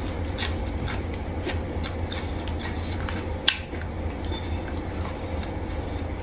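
Eating a Thai seafood salad: scattered sharp clicks and crunches, one louder about three and a half seconds in, over a steady low hum.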